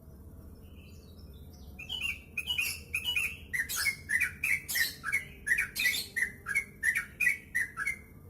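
Yellow-vented bulbul singing a fast run of short, bubbly chirps, about three a second. The run starts about two seconds in and goes on to the end, with the notes a little higher at first before settling lower.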